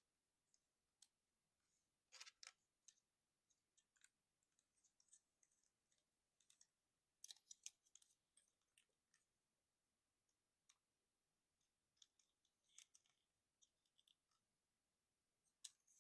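Faint, irregular clicks and snaps of a plastic Transformers action figure's parts being moved and clicked into place, in small clusters with gaps between.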